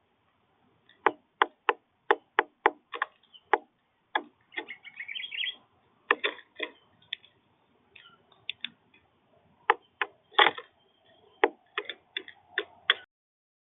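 Birds at a feeder: irregular sharp taps, pecks at the feeder and seed, one to several a second. A short run of high chirps comes about five seconds in.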